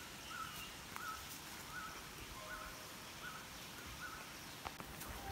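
A bird calling a short, slightly rising whistled note over and over, about one and a half times a second, with a brief lower call from another bird about halfway through.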